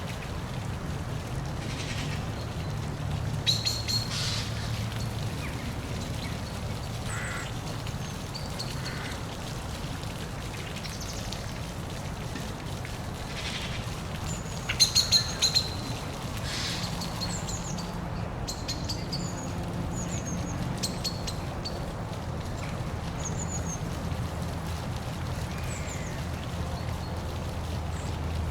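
Small birds chirping in scattered short calls over the steady low rush of a waterfall. Sharp clicks come twice, the louder cluster about halfway through.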